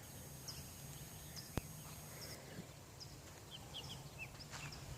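Faint outdoor background with scattered short, high bird chirps and a single sharp click about a second and a half in.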